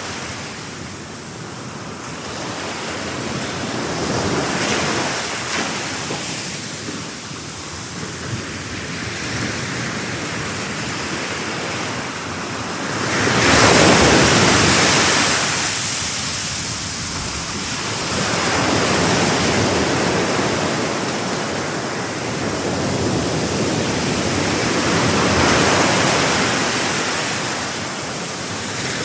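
Sea waves breaking and washing on the shore in slow swells, the loudest wave about halfway through.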